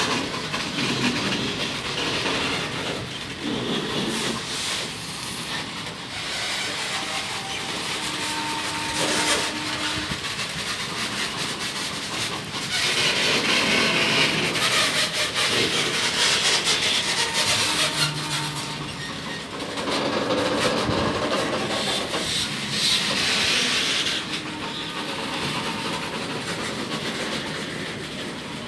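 Freight train of RORO flat wagons loaded with buses rolling out of a yard, wheels clattering over the rail joints, the noise swelling and easing as it passes, with a few short squeaks from the wheels along the way.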